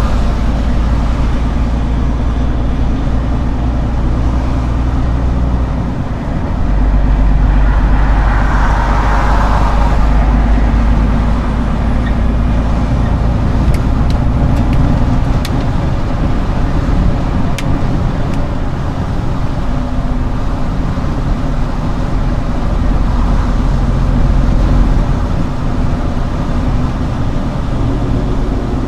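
Scania R410 concrete truck's diesel engine running steadily, getting louder about seven seconds in.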